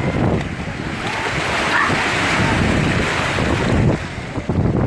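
Mediterranean Sea waves washing in at the shore, with wind buffeting the microphone in a heavy low rumble.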